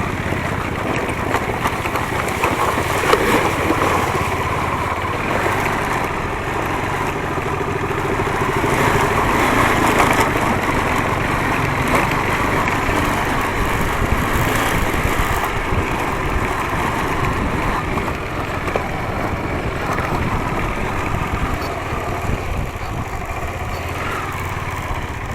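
A motor vehicle's engine running steadily, with a dense rushing noise over it throughout.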